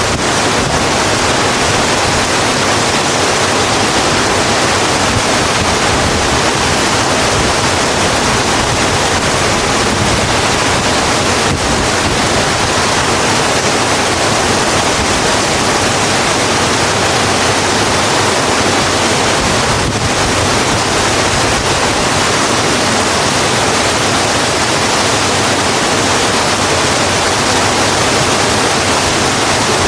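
Steady heavy rain falling: a dense, even hiss with no pauses, and a faint tick or two.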